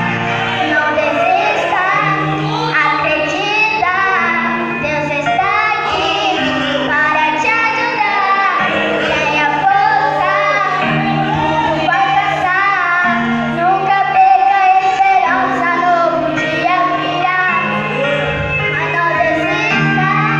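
A solo voice singing a melody over instrumental backing with long held bass notes.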